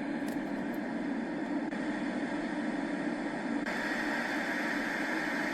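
Sound machine playing one steady noise track, then switching abruptly to another, brighter hiss about two-thirds of the way through as the next built-in sound is selected.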